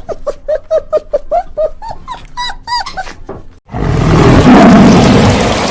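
Animal calls: a rapid series of short, high, arched calls, about four a second. Then, after a brief gap, a loud, rough roar starts suddenly and carries through to the end.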